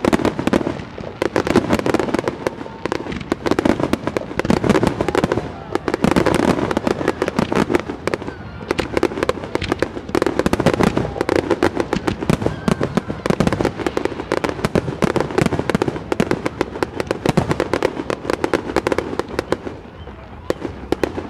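Fireworks display finale: a dense, continuous barrage of firework bangs and crackles in rapid succession, easing off slightly near the end.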